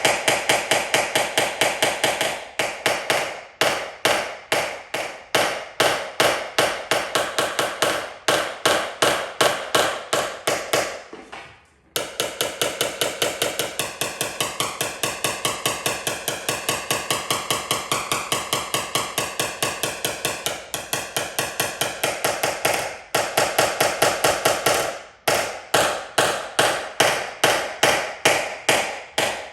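Paintless dent repair tap-down: a small hammer striking a knockdown tool against a vehicle's sheet-metal panel in quick, repeated light taps, several a second, to level high spots. It pauses briefly about a third of the way in. The taps then run faster and more evenly for about ten seconds, with a ringing from the panel that wavers in pitch.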